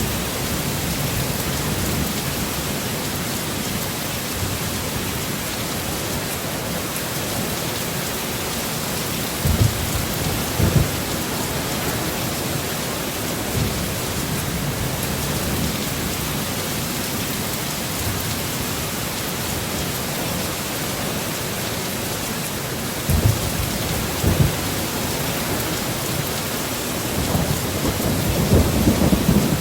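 Heavy rain falling steadily in a thunderstorm. Low thunder rumbles come in briefly twice about ten seconds in and twice more past twenty seconds, and a longer rumble builds near the end.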